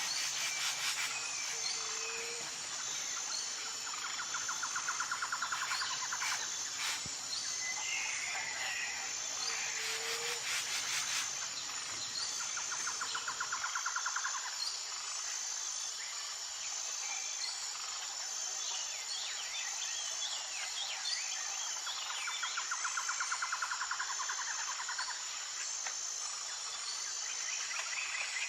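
Insects chirping in a steady high continuous chorus, with birds calling in short chirps. A rapid trill comes three times, each lasting two to three seconds.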